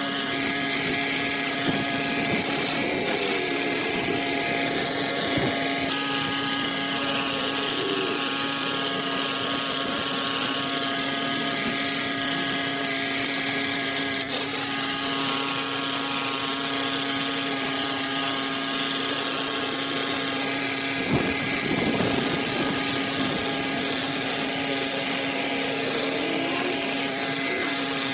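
Pressure washer running steadily: a constant motor hum with the hiss of the water jet over it.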